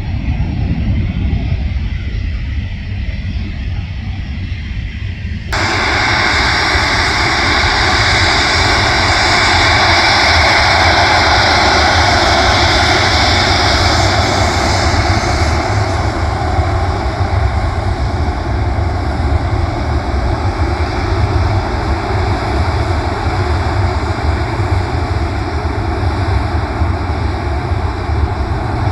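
A low rumble, then, about five seconds in, an abrupt change to the loud, steady noise of a jet airliner's engines close by, with a strong high hiss that eases somewhat in the second half.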